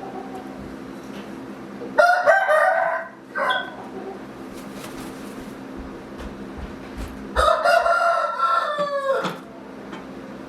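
Rooster crowing twice: a short crow about two seconds in, then a longer one near the end that drops in pitch as it finishes.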